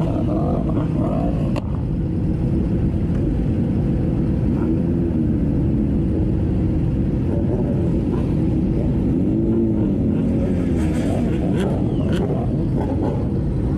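A road vehicle's engine running on the move over a steady low rumble, its note rising and falling twice.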